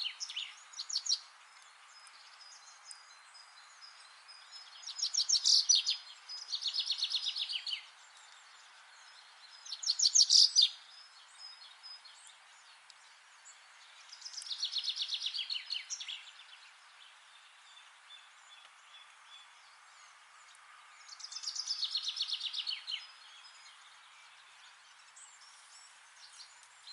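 A songbird singing short, fast trills of rapidly repeated high notes, one phrase every four to six seconds, over a steady faint hiss.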